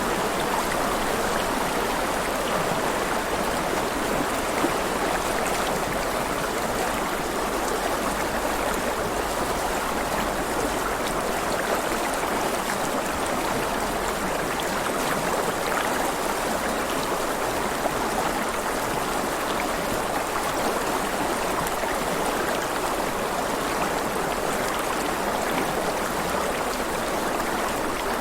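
River water flowing and rushing steadily over rocks, an even, continuous babble.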